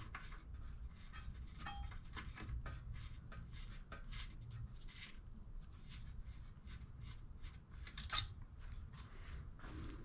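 Faint clicks, taps and rubbing from small handling while engine oil is topped up and the level checked with the dipstick on a Briggs & Stratton 500E push-mower engine, with a sharper tap about eight seconds in.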